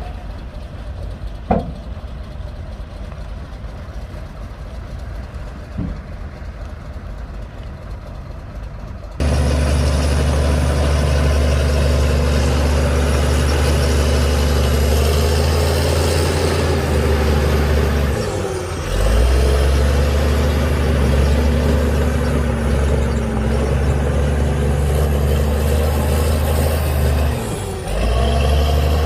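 Diesel engine of heavy earthmoving machinery. It runs at moderate level with a couple of sharp clicks, then abruptly becomes much louder and closer about nine seconds in. A high whine rises and falls over the engine, and the engine drops back briefly twice as the load changes.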